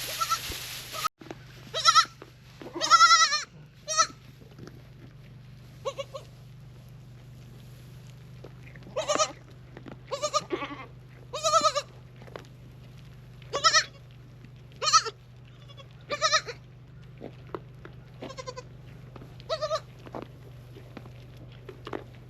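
Farm livestock bleating again and again, about a dozen short calls spaced a second or two apart.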